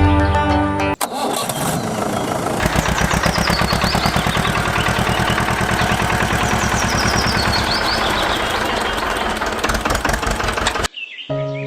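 Small engine cranking and starting, then running with a rapid, even firing beat that grows stronger after a couple of seconds; it cuts off suddenly near the end.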